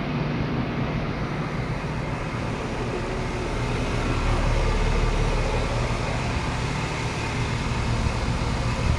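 Outdoor central air conditioner condensing units running: a steady fan whoosh over a low compressor hum, swelling a little midway, with a brief knock near the end.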